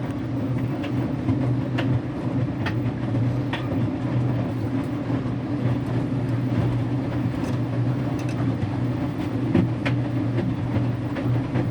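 Electrolux Wascator W355H washing machine running near the end of its wash cycle: a steady low motor and drum hum with irregular light clicks.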